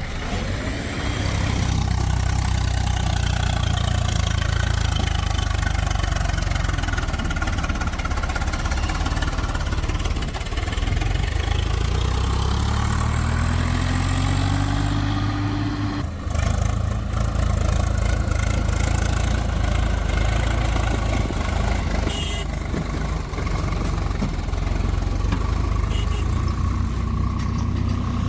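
Heavy diesel machinery running, with the engine revving up and rising in pitch twice as it works under load. The sound breaks off abruptly just past the middle, then carries on steady.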